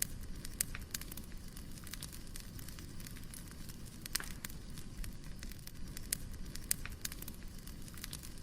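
Wood fire crackling: irregular sharp pops and snaps from burning firewood over a steady low rumble of flame.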